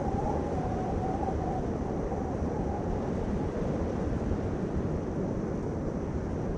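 Steady low rumbling noise, with a faint wavering tone in the first second or so.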